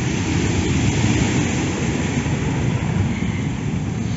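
Storm wind buffeting the microphone over a heavy, high sea: a loud, steady, dense low rumble with a hissing wash above it.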